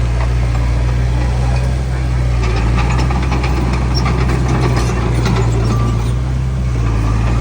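Heavy diesel engine of earthmoving machinery running steadily at an even low note, with light clatter over it.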